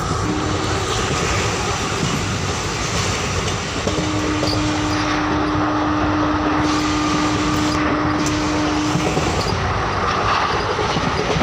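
Indian express passenger train running at speed, heard from on board: a steady noise of wheels on the rails and the coach in motion. A single steady tone sounds for about five seconds in the middle.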